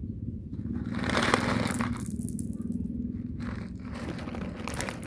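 Rustling, scraping and crackling noise in two spells, the louder about a second in and a shorter one past three seconds, over a steady low hum.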